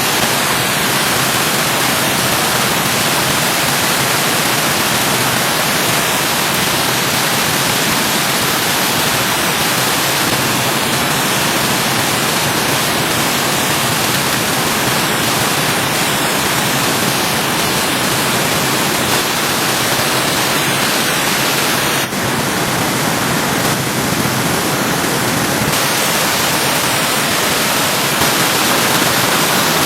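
Stream water rushing steadily after rain, a loud, even hiss, with a brief dip and slight change in tone about two-thirds of the way through.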